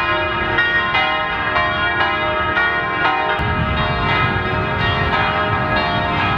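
Church bells ringing, about two strikes a second, each stroke ringing on under the next.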